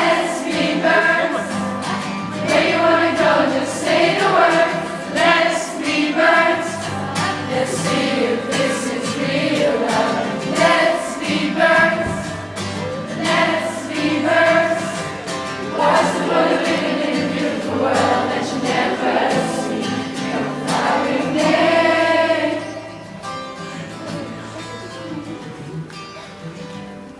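Many voices singing a song together, loud and sustained, with the level dropping markedly near the end.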